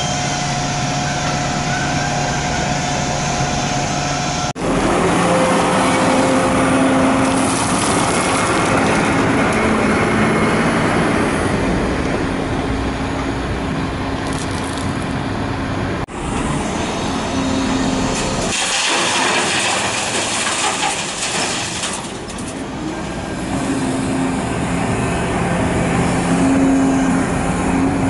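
Large hydraulic excavator's diesel engine running under load as it digs and loads, with a steady engine drone that shifts in pitch. The sound cuts out for an instant twice, and a burst of rushing noise comes about two-thirds of the way through.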